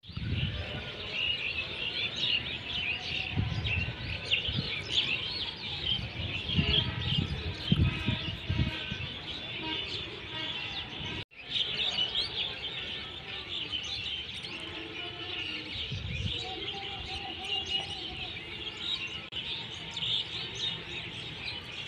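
A large flock of birds on a pond chattering and chirping without pause, many calls overlapping, with low rumbling in the first half and a brief dropout about eleven seconds in.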